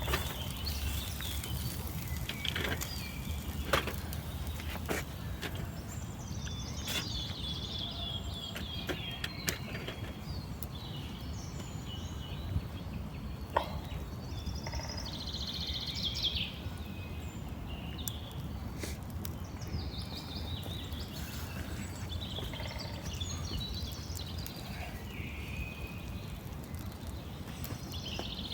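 Small birds chirping and calling on and off over a steady low rumble, with a few sharp clicks scattered through.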